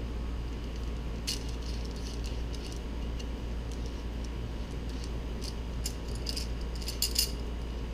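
A few light metallic clinks of steel differential parts being handled, once early and a quick cluster near the end, over a steady low hum.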